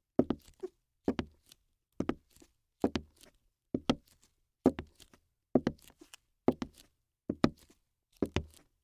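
Repeated sharp knocks in an even rhythm, a cluster of two or three about once a second.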